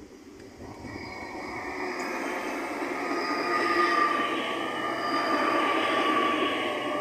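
LNER Azuma electric multiple unit running into the station platform and slowing, its rumble growing louder from about half a second in as it draws alongside. Several steady high-pitched whines ride over the rumble.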